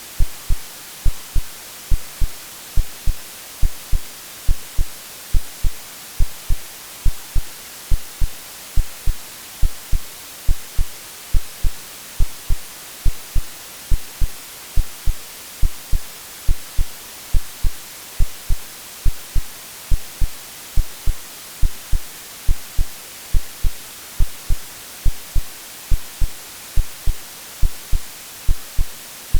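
Steady white-noise hiss with a low, double-thump heartbeat (lub-dub) repeating evenly about once a second, an AI-generated sleep sound meant to imitate what a baby hears in the womb.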